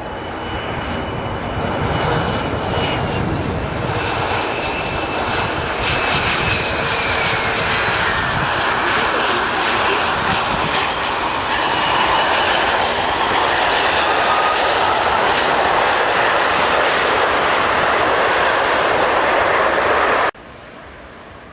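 Airliner's engines passing low on landing approach: a loud rushing with whining tones that slide down in pitch as it goes by, growing louder, then cutting off suddenly near the end.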